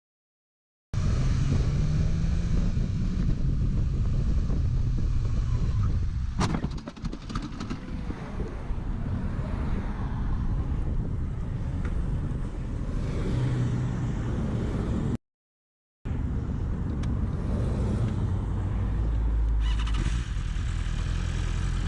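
Dashcam recording of a car on the road: steady engine and road noise, with one sharp bang about six seconds in followed by a few smaller knocks.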